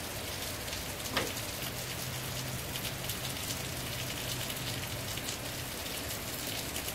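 Steady rain falling and pattering on surfaces. A single sharp click sounds about a second in, and a faint low hum runs for a few seconds in the middle.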